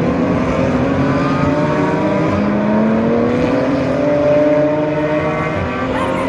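GT race car engines accelerating on track, the engine note rising steadily in pitch, with more than one engine heard at once.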